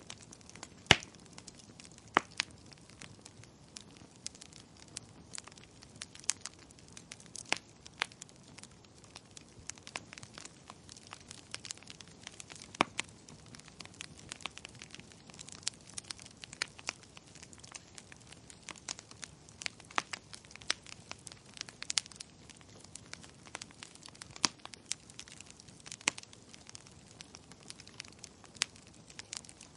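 Burning firewood crackling: irregular sharp pops and snaps over a soft steady hiss, the loudest pop about a second in.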